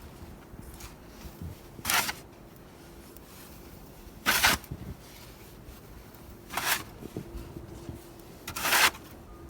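Snow shovel being driven into deep snow, four separate strokes about two seconds apart, each a short scraping crunch.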